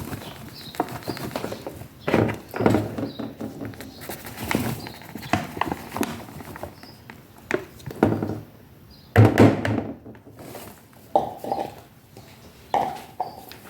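Irregular knocks, thuds and clatter of kitchen containers and utensils being handled while ingredients are set out, with a few brief ringing clinks near the end.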